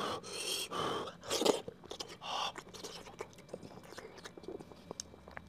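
Close-miked chewing and mouth sounds as boiled sheep head meat is eaten off the bone, loudest in three noisy stretches over the first two and a half seconds, then softer wet clicks.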